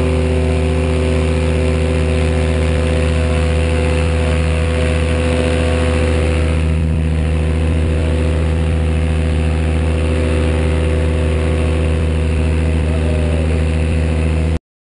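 Paramotor engine at takeoff power, its pitch having just risen, holding a loud, steady note as the tandem wing is launched in little wind. The sound cuts off suddenly near the end.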